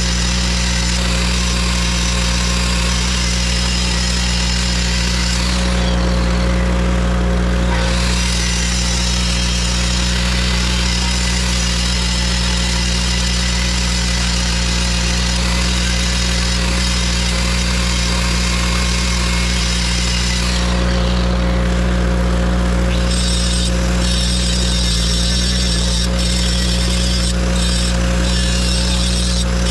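Grinder running steadily while sharpening a mower blade: a constant low motor hum under a dense grinding hiss. The hiss thins briefly twice, about six seconds in and again near twenty-one seconds.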